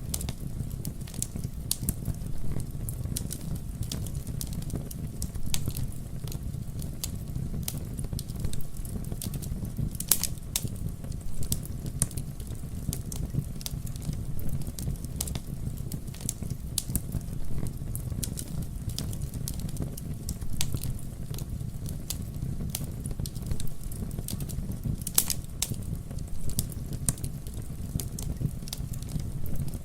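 Campfire burning, with frequent irregular crackles and pops over a steady low rumble of the flames; a couple of louder pops about ten seconds in and near twenty-five seconds.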